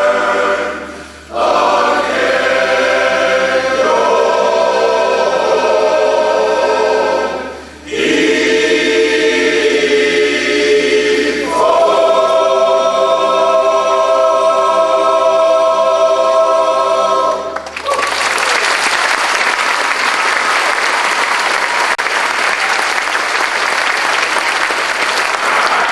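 Barbershop chorus singing a cappella in close harmony, with two short breaks and a long held final chord, then the audience applauding for the last third.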